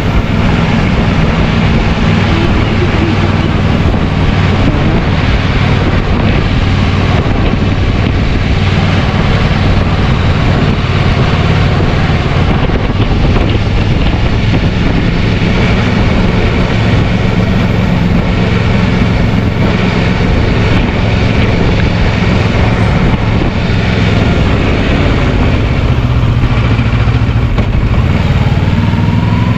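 Kawasaki Versys 650 parallel-twin engine running steadily while riding, with wind rushing over the microphone. The engine pitch rises near the end.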